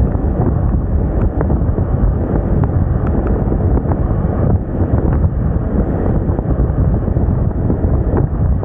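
Steady wind rush buffeting the microphone on a moving scooter, with road noise beneath.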